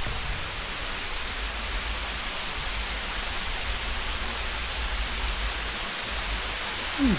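Steady rushing noise of a waterfall, with an uneven low rumble underneath. A short falling voice sound comes near the end.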